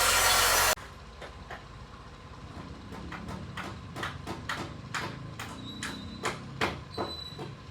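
A loud hiss of rushing air that cuts off abruptly under a second in, followed by a string of sharp clicks and knocks, roughly two a second, from work on the car.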